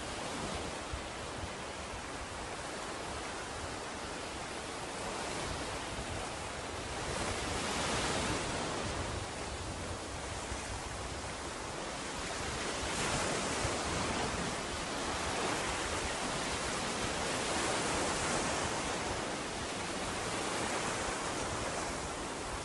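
Ocean surf washing onto a beach: a steady rush of breaking waves that swells and fades every few seconds.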